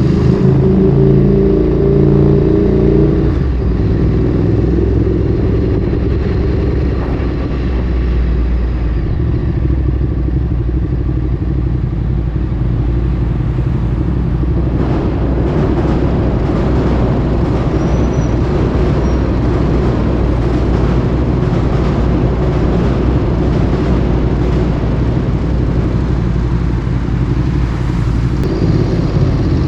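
Ducati Streetfighter 848's L-twin engine through a Termignoni exhaust while riding: a strong, rich exhaust note for the first few seconds, then a steadier, lower drone with wind and road noise building from about halfway.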